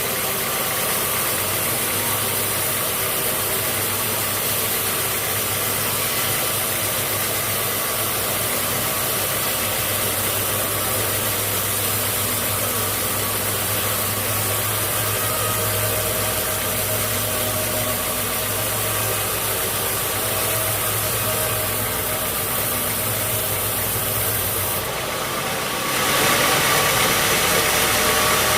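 Sawmill machinery running steadily: an engine-like hum under a wash of mechanical noise. The sound changes abruptly near the end and gets a little louder.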